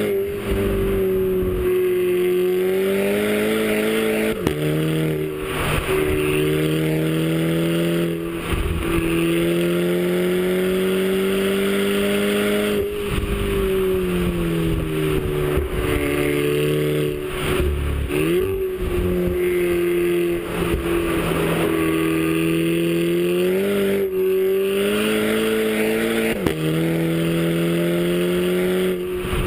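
Audi A3 TSI's turbocharged four-cylinder with an APR K04 turbo upgrade, running under way. Its note rises and falls gently, with brief sharp clicks several times.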